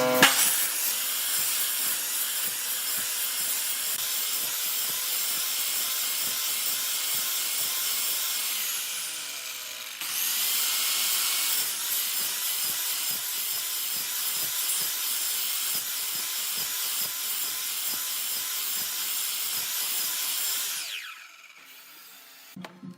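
Electric power tool running against wood, a steady high-pitched cutting noise that shifts in tone about ten seconds in. Near the end it is switched off and its motor whine falls away.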